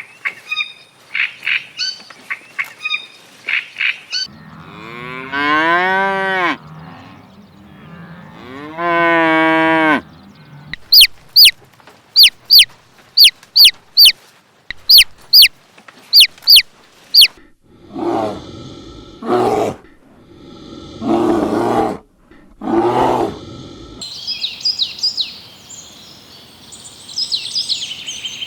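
A string of different animal calls, one after another. First come quick high peeps, then two long calls that drop in pitch. After them a run of sharp high chirps, three cries of a goat or sheep kind, and high twittering at the end.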